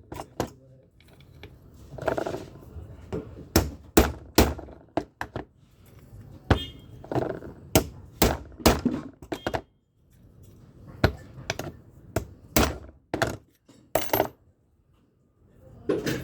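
Irregular sharp metallic knocks and clinks from metal drill parts and tools being handled and tapped, about a dozen spread unevenly through the stretch, some ringing briefly.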